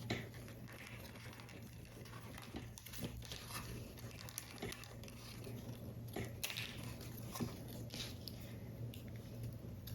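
Hands handling paper model pieces: light irregular taps, clicks and paper rustles, with no steady rhythm.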